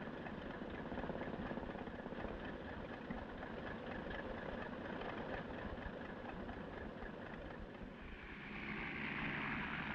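Light floatplane's piston engine running at low power, idling steadily; about eight and a half seconds in it grows louder.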